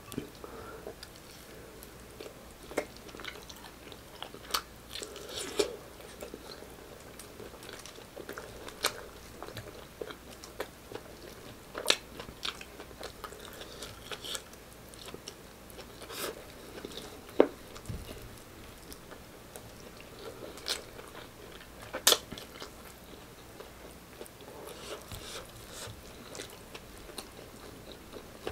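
Close-miked chewing with wet mouth sounds and lip smacks, eating saucy stewed meat and rice by hand, with sharp clicks scattered irregularly through it.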